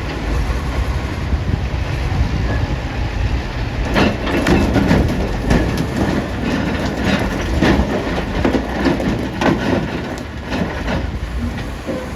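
Heavy diesel engine rumbling steadily, with a run of irregular heavy knocks and clatters starting about four seconds in and dying away near the end: large rocks tumbling into a steel dump-truck body.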